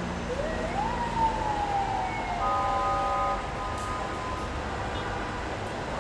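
A siren wail rising quickly, then slowly falling, followed by a vehicle horn blaring for about a second, over steady street traffic noise.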